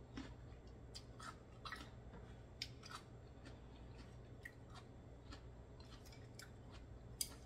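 Faint, irregular wet mouth clicks of someone chewing raw oyster, with one sharper click near the end, over a low steady hum.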